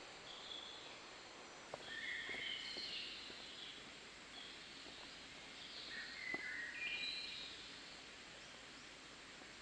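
Birds chirping in short, repeated calls over faint steady background noise, with a few soft clicks about two and six seconds in.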